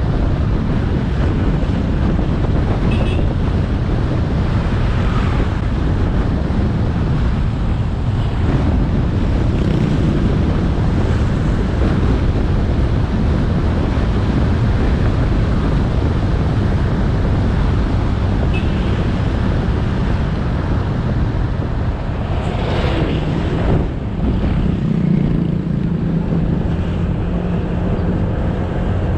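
Motorbike riding along a road: wind rushing over the helmet-mounted camera's microphone over the bike's engine. Near the end a passing vehicle briefly sweeps by, then a steady low engine hum comes up.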